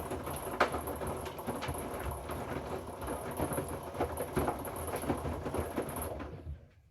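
Hoover inverter front-loading washing machine tumbling a load of rags in the wash phase: the drum turns with the wet washing sloshing and knocking unevenly, with a faint high motor whine, then the drum stops about six seconds in, pausing between turns.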